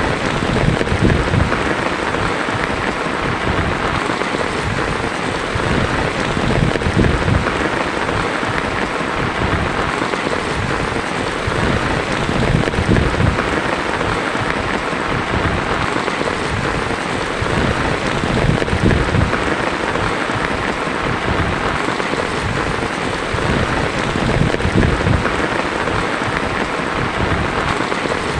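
Heavy rain falling steadily on a tin roof, with low thunder rumbling now and then underneath.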